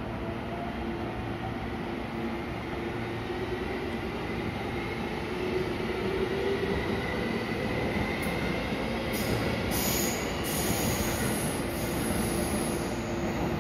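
Electric train at a station: a steady running hum that grows a little louder, with a tone rising in pitch through the middle and a high, shrill sound over the last few seconds.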